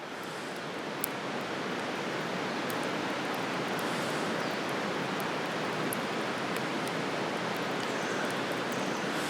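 Wood campfire crackling, with scattered sharp pops (one louder about a second in) over a steady rushing hiss that fades in at the start.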